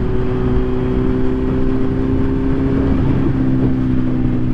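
Kawasaki Z900's inline-four engine running at a steady cruising speed on the move, its note changing slightly about three seconds in.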